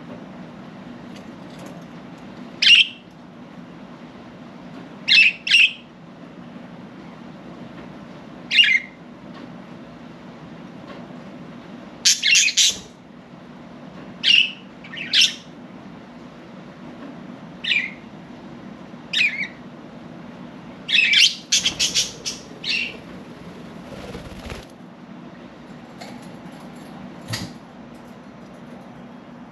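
Budgerigars giving short, sharp chirps and squawks, one or two at a time every few seconds, with a quick flurry of calls twice, over a steady low hum.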